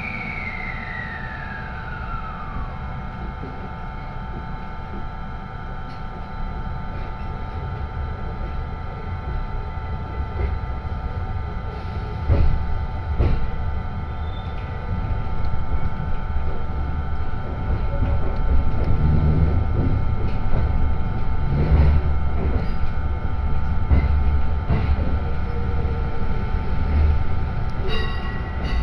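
Electric train running on the Sanyo Line, heard from inside the passenger car: a steady low rumble of wheels on track with a constant electric whine, getting louder over the second half. A whine falls in pitch over the first few seconds.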